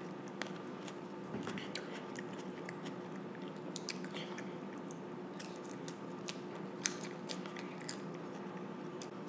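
A child chewing a mouthful of salad greens, with many short, irregular mouth clicks, over a steady low hum.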